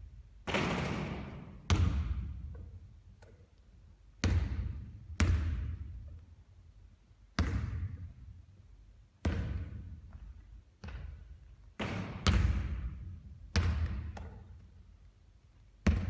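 A basketball thudding repeatedly during three-point shooting practice, with about ten sharp impacts at uneven gaps of one to two seconds. Each impact is followed by a long echoing tail.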